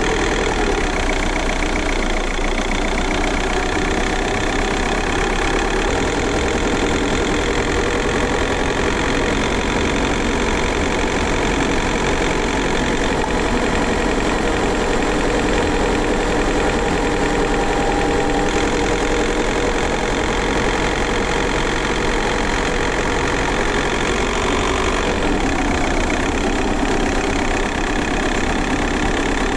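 VW Golf 4 4motion's 1.9 TDI four-cylinder turbodiesel engine running steadily at a near-constant engine speed, with no clear revving.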